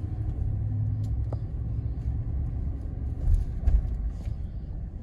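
Car's road and engine rumble heard from inside the cabin while driving, steady and low.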